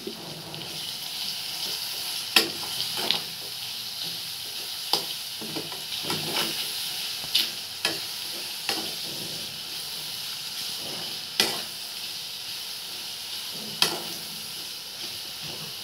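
Chopped tomatoes and onions sizzling in hot oil in a metal kadai while a metal spatula stirs them. The spatula knocks and scrapes sharply against the pan about a dozen times at irregular moments.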